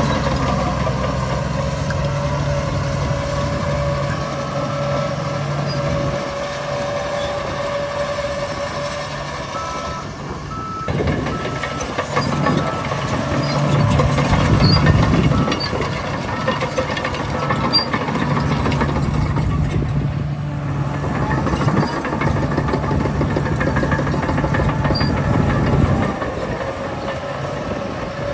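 Heavy diesel earthmoving machinery running and working under varying load. A reversing alarm beeps at a steady pace, about three beeps every two seconds, for several seconds starting near ten seconds in.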